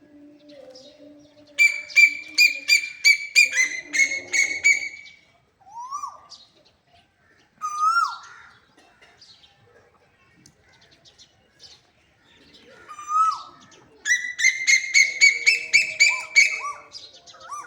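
Asian koel calling: two runs of fast, repeated high notes, about six or seven a second, with a few single rising calls between them.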